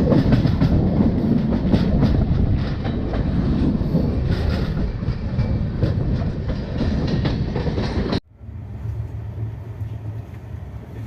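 Passenger train running along the track: a loud rumble with the clickety-clack and sharp clicks of the LHB coach wheels over the rails. About eight seconds in it cuts off suddenly to a much quieter steady low hum.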